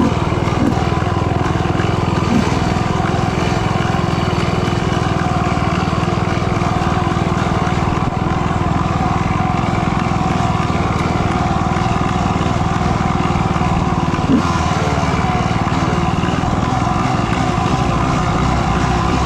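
Dirt bike engine running steadily under throttle as the bike is ridden along a rough trail, with two short knocks, one about two seconds in and one near fourteen seconds.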